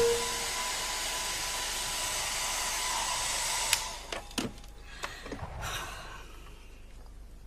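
Hair dryer running steadily with a faint whine, switched off with a click about three and a half seconds in, then a few light knocks and clicks.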